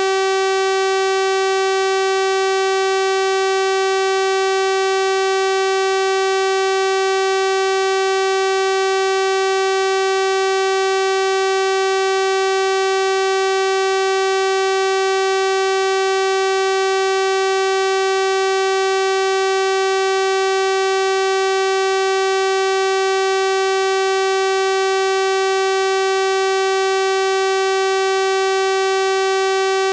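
Synthesized 384 Hz sawtooth-wave tone, held at one constant pitch and level, with a bright, buzzy stack of overtones.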